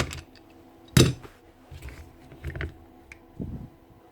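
Clicks and knocks of hard tool parts being handled and set down while an SDS hammer drill is taken apart. There are several separate knocks, the loudest about a second in.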